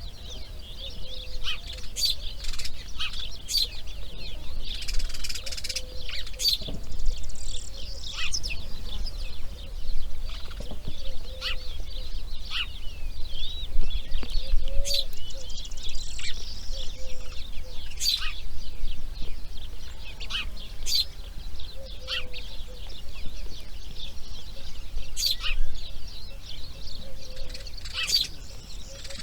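Birds calling at a grey heron nest site: short high chirps and sharp clicks at irregular intervals, with faint lower calls and a steady low rumble underneath.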